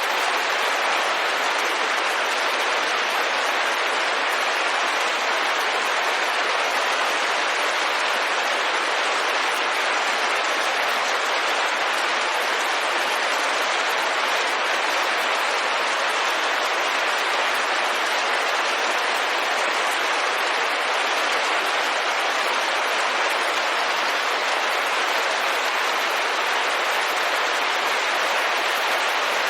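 Steady, even rain falling and pattering on a window pane, with no single drops or gusts standing out.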